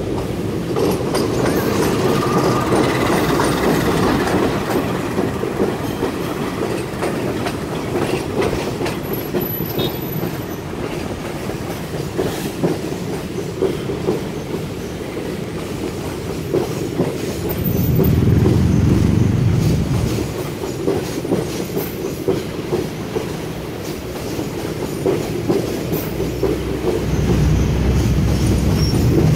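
Passenger train passing directly below over the points, its wheels clattering over the rail joints and crossings. A faint wheel squeal comes in briefly early on, and a deeper rumble swells about two-thirds of the way through and again near the end.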